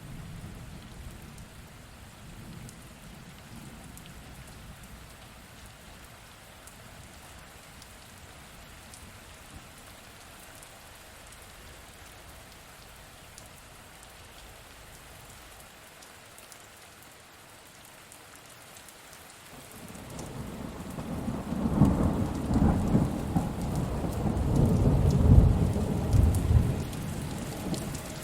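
Steady rain falling, then about two-thirds of the way through a long, low rumble of thunder builds and rolls on for several seconds, much louder than the rain.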